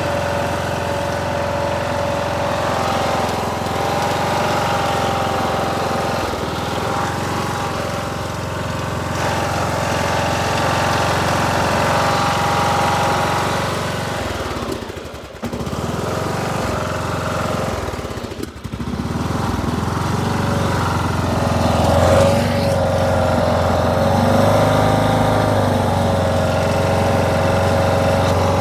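Riding lawn mower engine running steadily, its pitch wavering a little as it drives, with two brief drops in level about halfway through.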